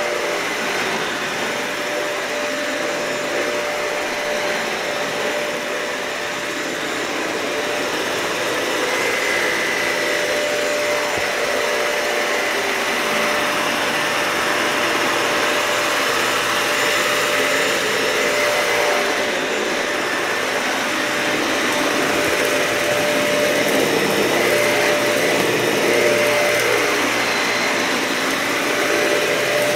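Dyson vacuum cleaner running steadily over carpet, a continuous rush of air with a steady whine, swelling slightly as it is pushed along.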